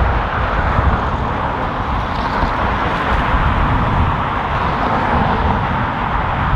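Steady jet airliner engine noise mixed with strong gusting wind buffeting the microphone as a low, uneven rumble.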